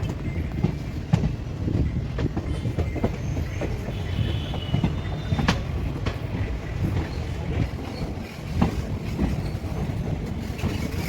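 Train running on rails: a steady low rumble with wheels clacking over rail joints, and a brief faint squeal about four seconds in.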